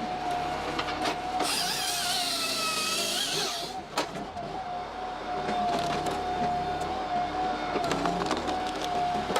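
Wood chipper running with a steady high whine. About a second and a half in, a louder, harsher high grinding starts, its pitch dipping and then rising, and stops about two seconds later. A sharp knock follows soon after.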